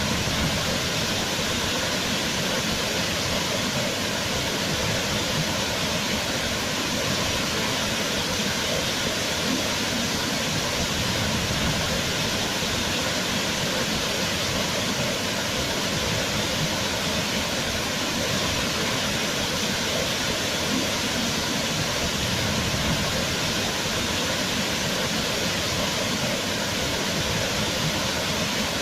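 Waterfall: a steady, dense rush of falling water, even and unchanging.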